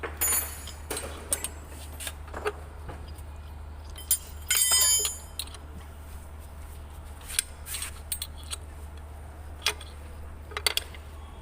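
Steel hand tools clinking and knocking against engine parts, with a brief ringing metallic clatter about four and a half seconds in.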